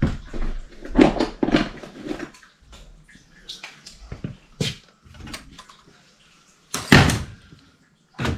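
Irregular knocks and scrapes of tools and metal parts being handled, with one loud clatter about seven seconds in.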